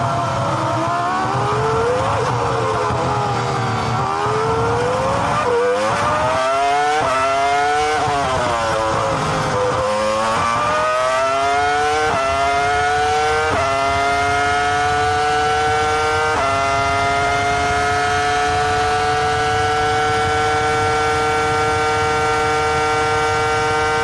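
Formula 1 V10 racing engine heard onboard at full song. In the first half its revs swing up and down with quick gearshifts. Then it upshifts three times, each shift a sudden drop in pitch, and holds high, slowly climbing revs.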